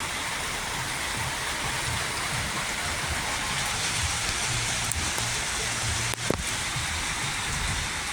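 Steady rain falling, an even hiss, with one sharp knock about six seconds in.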